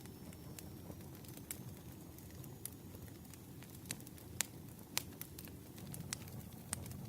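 Campfire burning: a low steady rustle of flames with sharp wood pops and snaps at irregular intervals, the two loudest pops about four and five seconds in.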